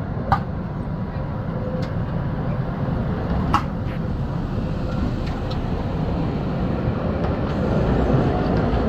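Tram running along street rails with a steady low rumble that grows a little louder toward the end. Two short, sharp clicks or squeaks cut through it, one just after the start and a louder one about three and a half seconds in.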